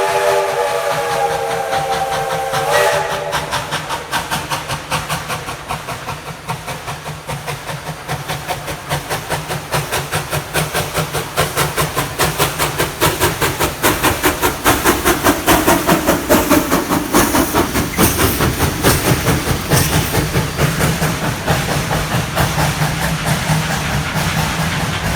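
Steam locomotive whistle sounding a chord that cuts off about three seconds in, followed by the locomotive's exhaust chuffing in a steady beat that quickens and grows louder as the train works along.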